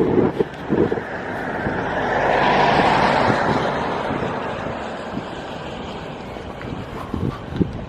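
A car driving past, its noise rising to a peak about three seconds in and then slowly fading away. A few short low thumps come near the start and again near the end.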